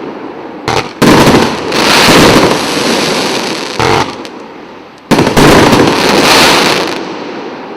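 A 100-shot firework cake with 1.25-inch shells firing in volleys. Sharp launch bangs are followed by loud bursting shells and a hiss that slowly fades. A short shot comes under a second in, a big volley about a second in and another about five seconds in.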